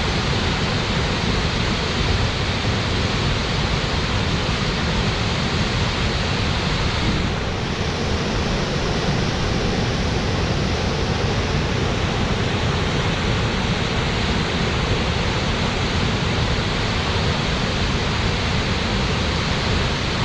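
Akamizu waterfall pouring steadily: a dense, even rush of falling water, heavy in the low end. The higher hiss dips briefly about seven seconds in.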